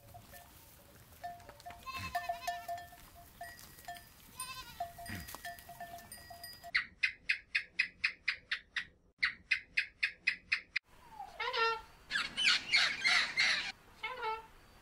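A goat bleats in wavering calls. Then comes a rapid, even run of high chirps, about four a second, for some four seconds. Near the end, a blue-and-gold macaw gives loud, harsh squawks.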